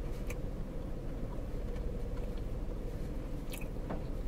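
A person chewing a mouthful of soft sandwich with faint, occasional mouth clicks, over a steady low background hum inside a car cabin.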